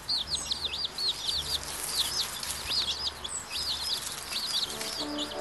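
Many small birds chirping rapidly and continuously in high, short, hooked notes. Steady musical tones come in near the end.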